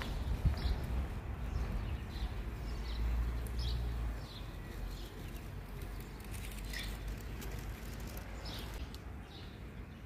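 Small birds chirping, with short high chirps scattered throughout, over a low rumble that eases after about four seconds.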